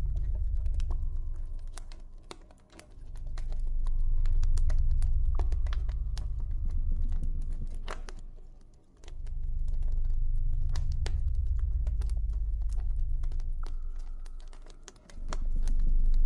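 Campfire crackling with irregular sharp pops, over a loud, low ambient drone that swells and fades away about every six seconds.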